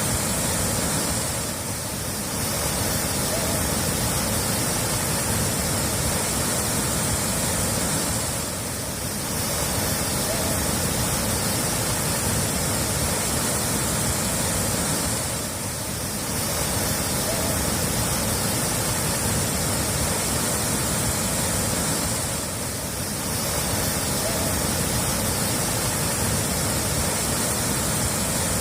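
Steady rushing water, a dense hiss without distinct drips or splashes, dipping briefly about every seven seconds.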